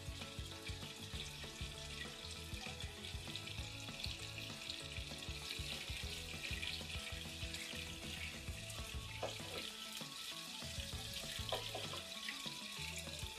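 Minced-mutton kofta balls sizzling as they shallow-fry in oil in a frying pan, a steady crackle with a few sharper pops in the second half. Soft background music plays underneath.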